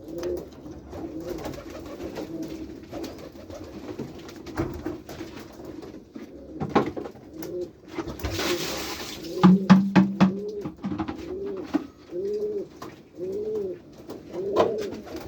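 Kaguji white pigeons cooing in the loft: a low, continuous murmur of coos, joined in the second half by a run of single rising-and-falling coos about once a second. A few sharp knocks and a brief rustle come about halfway through.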